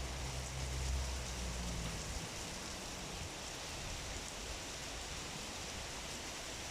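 Heavy rain falling steadily, an even hiss. For the first two seconds a low rumble of wind gusting on the microphone sits under it, then dies down.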